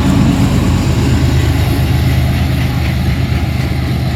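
Unit tank train passing close behind three diesel locomotives, with a loud, steady low engine drone over the rumble of the rolling train.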